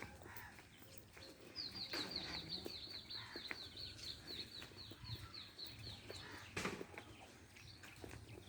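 A bird calling a long run of short, high, falling notes, about four a second, evenly spaced for several seconds. A soft knock comes near the end.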